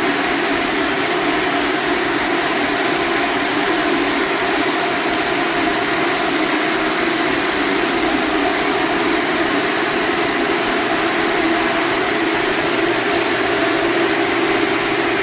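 A motor-driven machine running steadily: a loud, even whir with a low hum, unchanging throughout.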